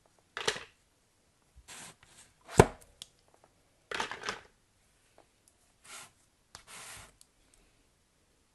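Soap being unpacked from its packaging: a handful of short rustling, scraping handling noises, with one sharp click about two and a half seconds in as the loudest.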